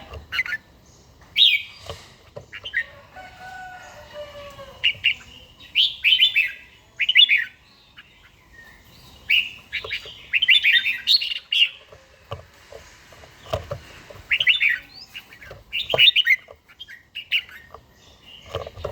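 Red-whiskered bulbul singing in short bursts of quick, bright chirping phrases, repeated every second or two with pauses between.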